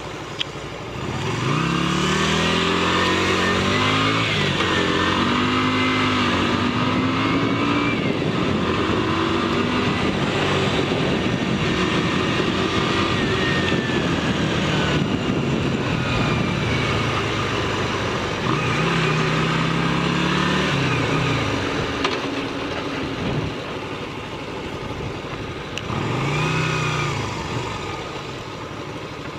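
Motorcycle engine accelerating hard, its pitch climbing and dropping again several times as it shifts through the gears, over steady wind and road noise.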